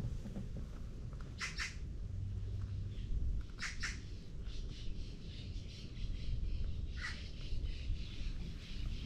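Birds giving short harsh squawking calls: a quick pair about one and a half seconds in, another pair about four seconds in, and one more near the end, over a steady low rumble.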